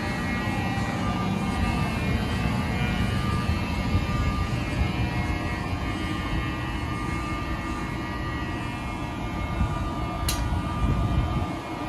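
NJ Transit train led by an ALP-46 electric locomotive running at the station, a steady rumble with several whining tones over it. A sharp click sounds about ten seconds in.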